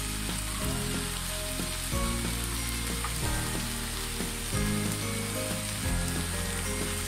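Cut okra sizzling in a karai over high heat, its cooking water dried off. A slow background music track plays underneath.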